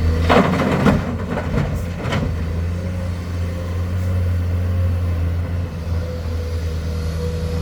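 Komatsu excavator's diesel engine running steadily with a low drone and a faint steady whine, with a flurry of knocks and scraping in the first two seconds.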